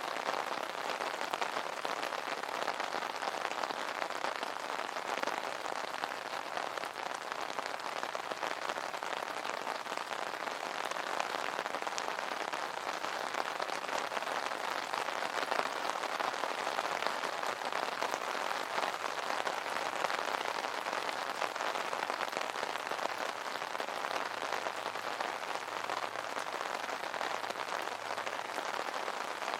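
Steady rain pattering on an umbrella's fabric canopy, a dense even patter of drops.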